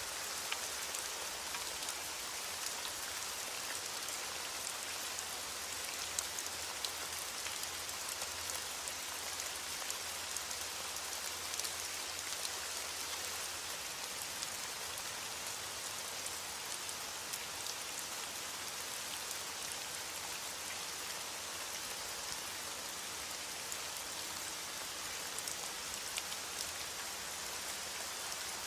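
Heavy rain hitting a window, a steady, even hiss with scattered faint ticks.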